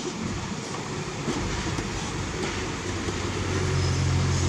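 Heavy diesel construction machinery running under load, its deep engine note growing louder over the last second and a half.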